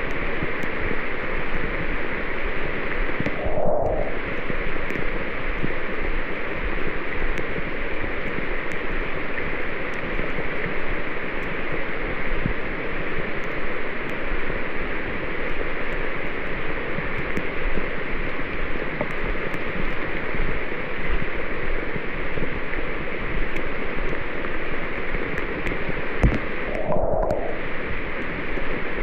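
Steady, loud rain falling on rainforest foliage, with scattered drip ticks over a continuous hiss.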